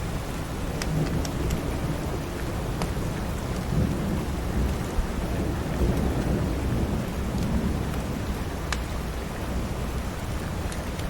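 Steady heavy rain with a low rumble of thunder swelling through the middle, and a few scattered sharp crackles from a wood fire.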